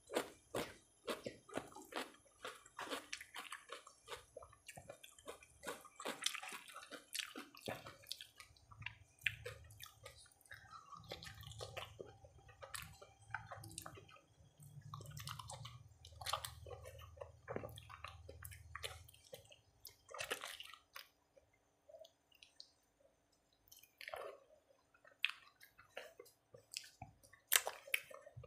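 Close-up eating by hand: wet chewing and lip smacks with small clicks and squishes as rice and steamed okra are mixed with the fingers and eaten. A low hum runs for about ten seconds in the middle.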